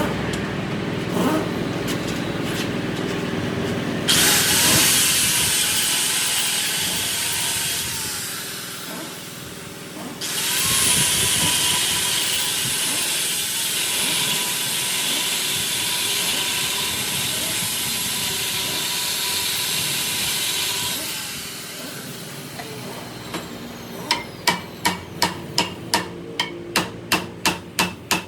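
A workshop power tool runs in two long stretches with a dense hiss, pausing about eight seconds in and stopping about twenty-one seconds in, over a steady machine hum. Near the end come rapid hammer blows on metal, about three a second.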